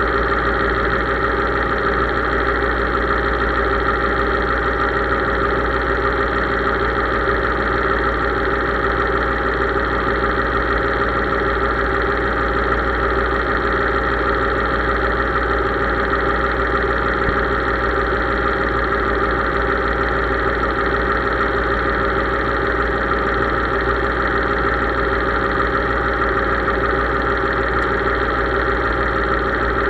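Case IH 3220 tractor's diesel engine running at a steady, unchanging speed.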